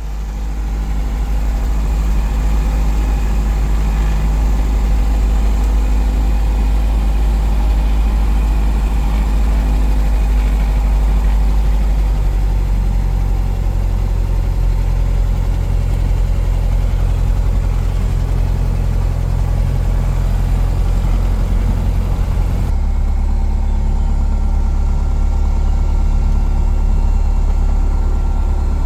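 Cessna 177 Cardinal's single piston engine and propeller running steadily. The tone of the drone shifts about twelve seconds in and changes abruptly again about two-thirds of the way through.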